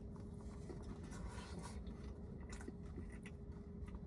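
Faint chewing of a mouthful of cheese pizza slice, with small scattered mouth clicks over a steady low hum.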